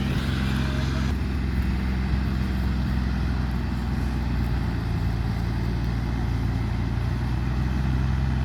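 Tractor engine running steadily with a low, even hum. A brighter hiss above it drops away about a second in.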